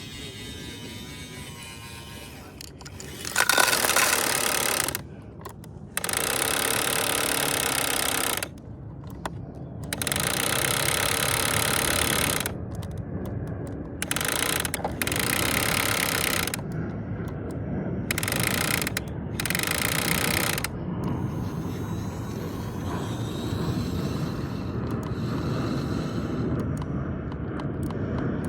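A toy garbage truck's small geared motor running in repeated bursts, each one to two seconds long, starting and stopping abruptly.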